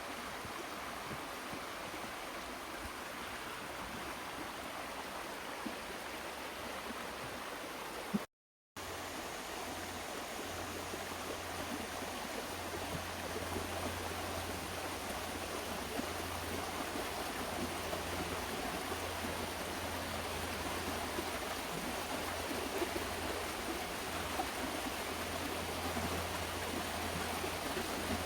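Hillsborough River water rushing steadily. Sound briefly cuts out about eight seconds in; after that a low steady hum runs underneath the water.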